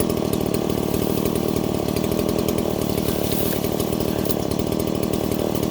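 STIHL MS170 two-stroke chainsaw running at a steady speed, its engine note holding even throughout.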